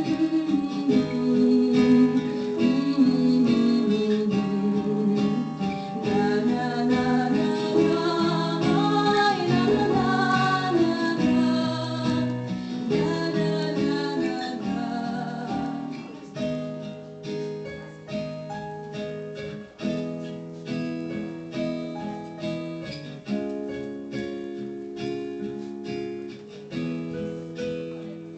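Acoustic guitar playing an instrumental passage between sung verses. For the first half a higher, wavering melody line rides over the chords; after that the guitar plays alone, picking single notes that ring and die away, a little quieter.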